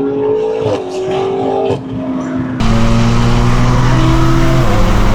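Straight-piped BMW engine running loud under steady throttle. It cuts in suddenly about two and a half seconds in, after a quieter pitched drone that shifts in small steps. Its pitch drops a step about a second before the end, as on an upshift.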